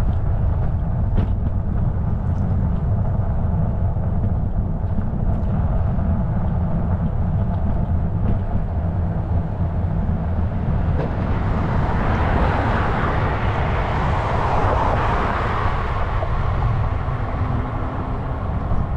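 Steady low wind and road rumble on the microphone of a moving bicycle. A motor vehicle passes in the second half, its tyre and engine noise swelling and then fading.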